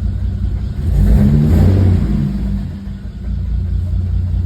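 BMW N54 twin-turbo straight-six running at idle, blipped briefly about a second in and then settling back to idle. The recording is made to capture a knock that the owner hears from this engine.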